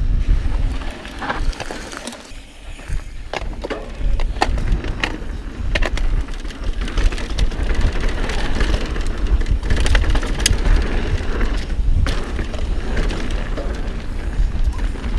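Mountain bike riding down a dirt trail: knobby tyres rolling over dirt and rock, with frequent sharp clicks and rattles from the bike and heavy wind rumble on the camera microphone. It goes briefly quieter about two seconds in.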